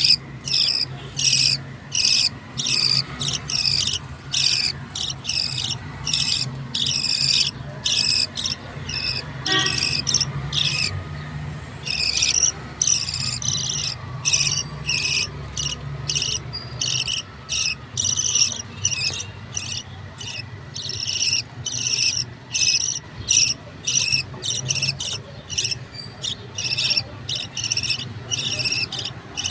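Budgerigar chicks giving high, raspy begging calls over and over, about two a second, as they are fed. A steady low hum sits underneath.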